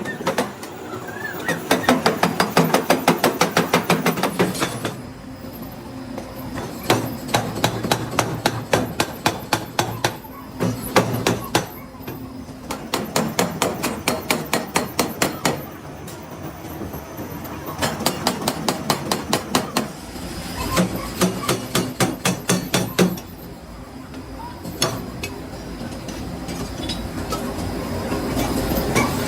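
Rapid metal hammering in bursts of a few seconds, several strikes a second, with short pauses between bursts.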